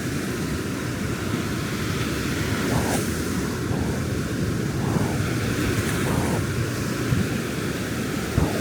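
Ocean surf washing on a beach, a steady low rumble of waves, with wind buffeting the microphone.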